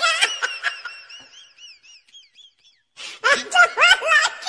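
High-pitched human cries and laughter that waver and fade away over the first two seconds, then break out again in rising, whooping cries about three seconds in.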